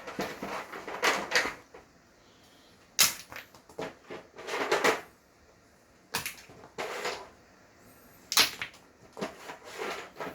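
Hard plastic toy dinosaur figures clattering and knocking against each other and a hard surface, in several short bursts with quiet gaps between.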